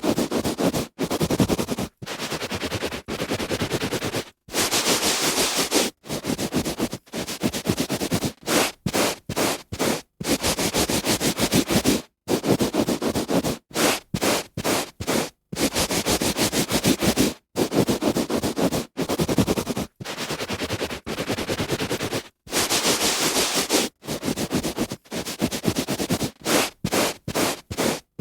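A hand rubbing back and forth on a carpet, with the fibres rasping. The strokes come in uneven runs, some long and some short and quick, each broken off by a brief hard gap.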